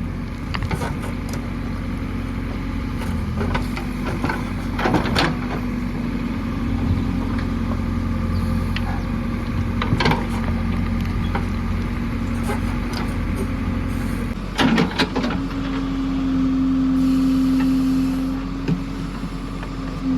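JCB 3DX backhoe loader's diesel engine running steadily under work, with a few sharp metallic clanks spread through. Late on the engine revs up and holds a higher note for about two seconds before settling back.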